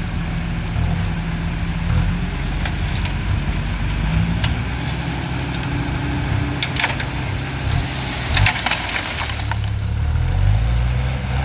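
Kubota M108S tractor's diesel engine working steadily as it pushes soil. About two-thirds of the way through comes a run of sharp cracking and snapping as the blade digs in under bamboo roots.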